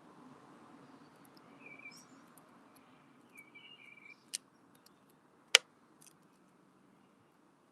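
Faint short bird chirps twice, then two sharp clicks or taps, the second much louder, about five and a half seconds in, over a low steady hum.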